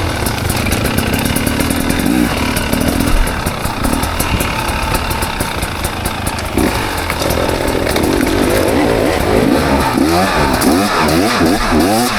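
KTM 300 XC two-stroke dirt bike engine running under load, the throttle worked rapidly up and down in quick rev swings over the last few seconds. A sharp knock about three seconds in.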